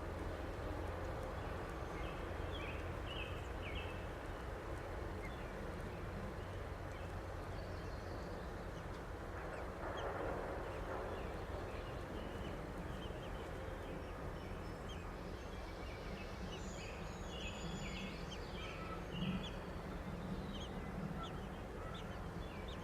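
Day-old chicks peeping, many short high cheeps one after another, over a steady low hum.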